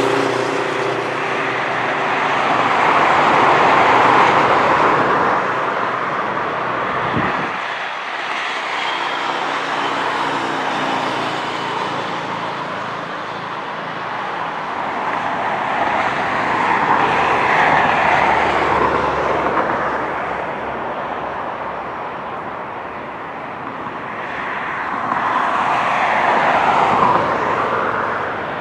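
Boeing 737-700's CFM56-7B turbofan jet engines running. The jet roar swells and fades several times, loudest a few seconds in, again about two-thirds through, and near the end.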